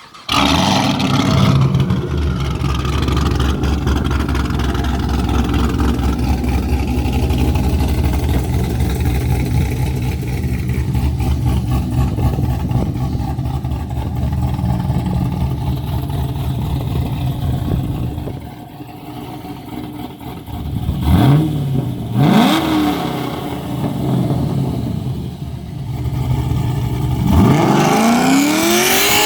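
Cammed 2015 Chevrolet Camaro SS 6.2-litre V8, with long-tube headers, a 3-inch X-pipe and no mufflers, starting up and idling loudly. The idle drops quieter at about 18 seconds, then the engine is blipped twice in quick succession and given a longer rev that climbs near the end.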